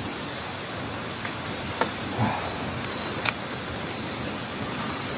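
Night outdoor ambience: a steady hiss with a thin high insect drone, broken by a few sharp clicks and three short high chirps about three and a half seconds in.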